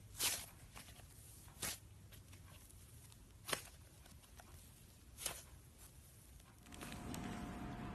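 Slime being handled, with four short squishing sounds spaced a second and a half to two seconds apart. Near the end the background changes to a louder, steady hiss with a faint high hum.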